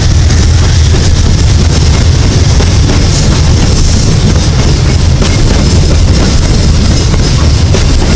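Empty Babaranjang coal train's freight wagons rolling past close by: a loud, steady low rumble of steel wheels on the rails, with scattered clicks as the wheels run over rail joints and points.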